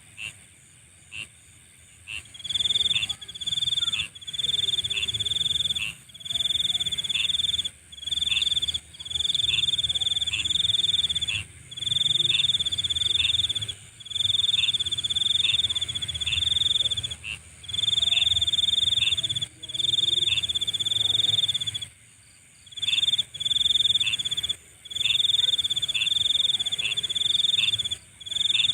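Nighttime chorus of calling insects. A few short chirps are followed, about two seconds in, by loud pulsing trills in bursts of about a second each, over a steady high-pitched buzz.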